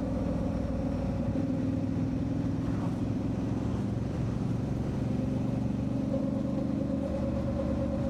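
Motorcycle engine running at a steady cruising speed while riding: a constant, even engine hum with no change in revs.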